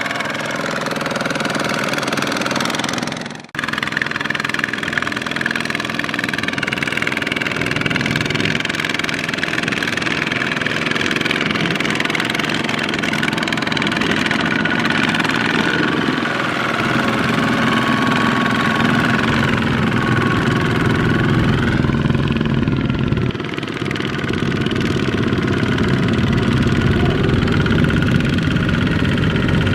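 Small Kubota single-cylinder diesel tractor engine running loud and steady, its pitch shifting a little as it works. The sound drops out briefly about three and a half seconds in.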